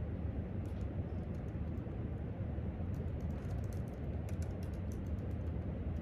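Typing on a laptop keyboard: short runs of quick key clicks, densest in the second half, over a steady low room hum.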